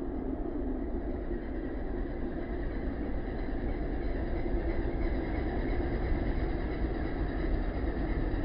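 Heavy truck running on the road: a steady low engine rumble and road noise that grows a little louder about halfway through.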